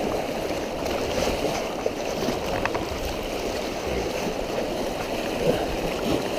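Steady rush of fast-running river water through rapids around a kayak.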